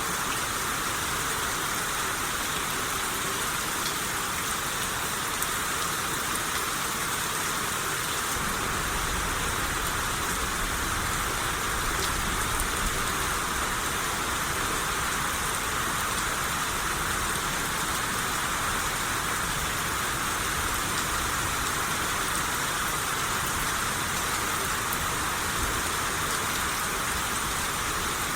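Steady rain shower falling and pattering on surfaces, an even hiss without pause. A low rumble runs underneath from about eight seconds in until near the end.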